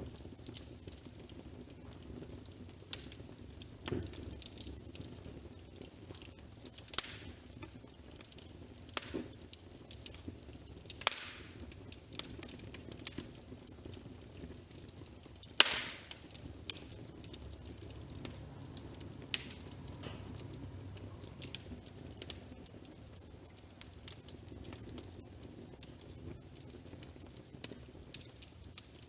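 Wood fire crackling: irregular sharp pops and snaps over a low, steady rush, with one louder pop about halfway through.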